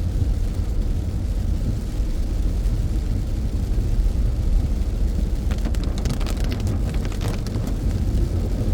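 Steady low road and engine rumble inside a moving car's cabin, with a short run of light crackling ticks a little past the middle.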